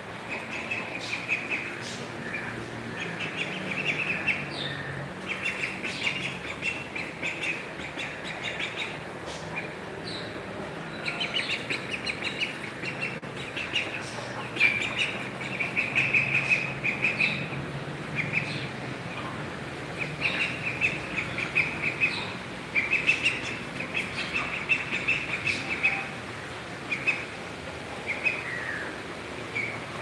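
Birds chirping in quick twittering bursts, again and again, over steady outdoor background noise.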